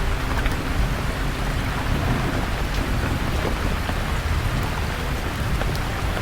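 Steady rain falling on leaves, with scattered individual drops ticking and a low rumble of distant thunder underneath.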